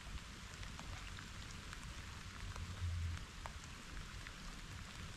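Steady rain falling, with many single drops ticking close by over the even hiss. A brief low rumble swells about three seconds in.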